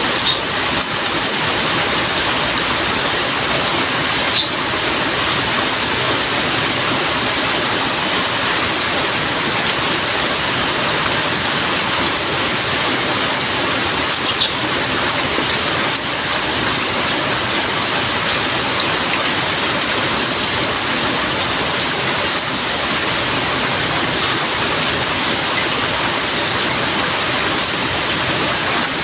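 Steady heavy rain falling, an even dense hiss with a few sharp drop ticks standing out now and then.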